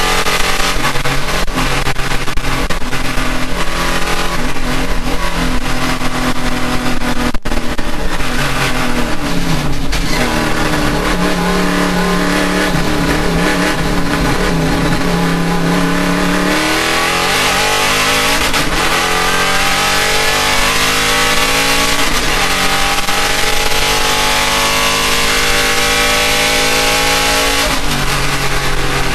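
Race car engine running hard under load, its revs rising and falling as it shifts and lifts. There is a brief cut about seven seconds in, and a long steady climb in pitch over the last ten seconds.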